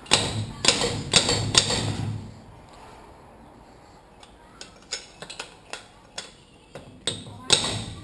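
Hammer blows on a Honda CR250 upside-down fork's damper, metal ringing after each strike. There are four strikes in the first two seconds, a few light clicks in the middle and two more strikes near the end; the damper is stuck in the fork leg and is being beaten to free it.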